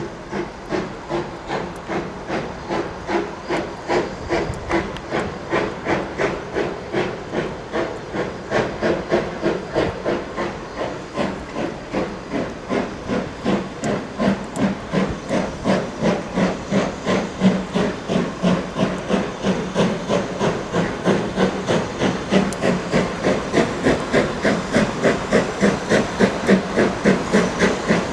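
Steam locomotive working hard, its exhaust chuffing in a steady rhythm of about two to three beats a second over a hiss of steam. The beats quicken slightly and grow steadily louder.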